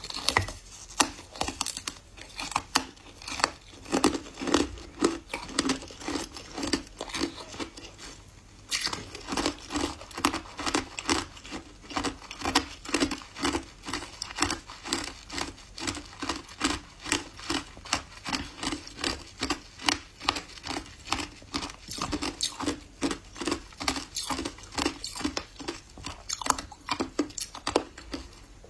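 Ice being bitten and chewed up close, a steady run of crunches at about two to three a second with a short break about eight seconds in.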